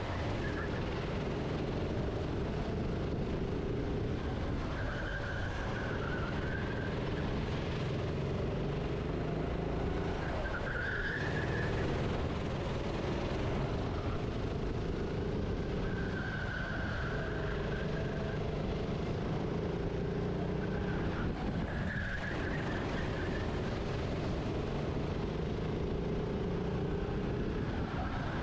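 Go-kart engine heard onboard while racing, its note holding along the straights and falling away briefly about every five or six seconds as it slows for corners, with steady rushing noise beneath.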